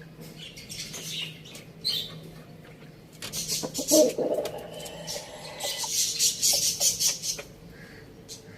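Farmyard chickens: a short, lower call about four seconds in, with chirping and scratchy rustling bursts around it.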